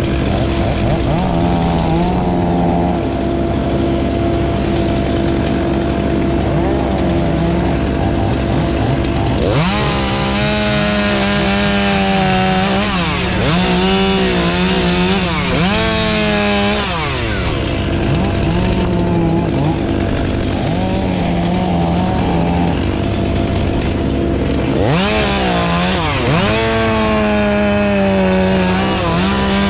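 Chainsaw running over a steady engine drone. Twice, around ten seconds in and again near the end, it revs hard, its pitch sagging and climbing repeatedly as it works through cuts.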